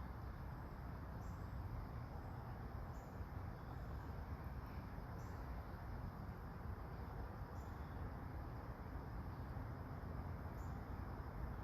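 Steady hiss of soft autumn rain, with a short high chirp every two seconds or so.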